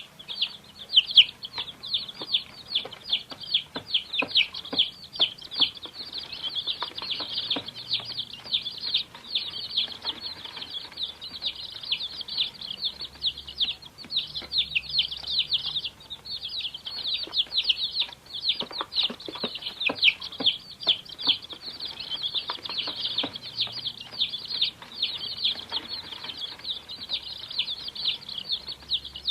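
A brood of domestic chicks peeping continuously: many short, high-pitched, downward-sliding cheeps overlapping with no pause. Faint scattered clicks run underneath.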